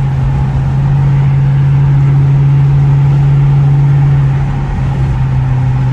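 Straight-piped Dodge Charger R/T's V8 exhaust droning steadily while cruising, heard from inside the cabin. The drone eases off briefly about four and a half seconds in, then comes back.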